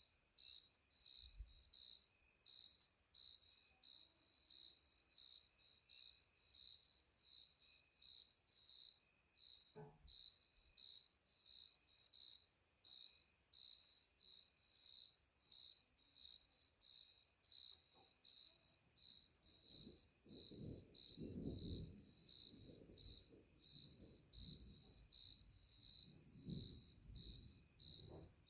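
Crickets chirping steadily, a high pulsed chirp about two or three times a second over a fainter, steady insect trill. Low distant thunder rumbles from about two-thirds of the way in until near the end.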